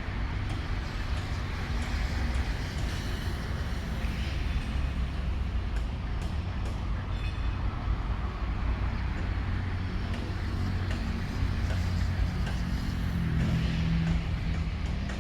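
Steady low rumble of a passenger train heard from inside the carriage, with a few faint clicks and a low hum growing stronger near the end.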